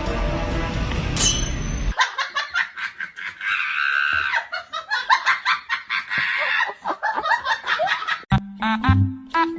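Music that cuts off abruptly about two seconds in, followed by rapid, pulsing laughter.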